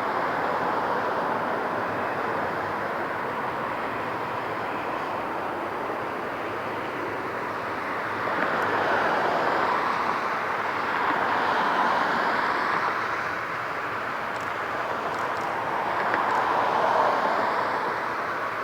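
Steady rushing roar of jet aircraft engines, swelling louder three times and easing back between.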